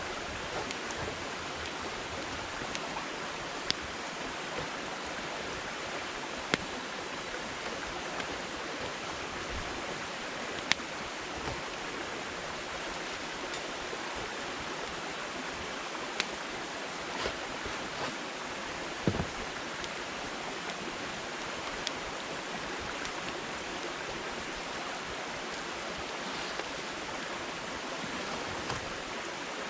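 Firewood burning in a campfire: a steady rushing hiss with sharp single crackling pops every few seconds.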